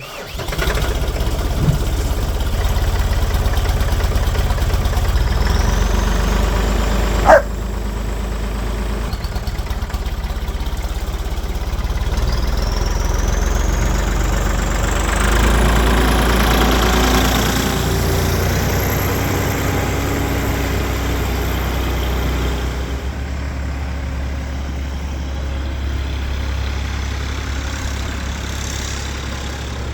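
Massey Ferguson 462 tractor's diesel engine running steadily, with one sharp knock about seven seconds in and the engine getting louder for a few seconds midway.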